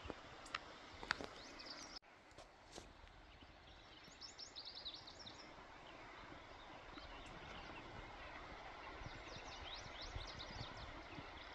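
Quiet woodland air with a small songbird giving quick runs of high chirps in three bursts, about a second in, around four to five seconds in, and again near the end. A few sharp clicks sound in the first three seconds.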